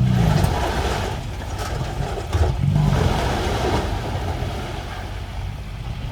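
Heavy construction machine engine running with a low rumble, swelling louder at the start and again about halfway through.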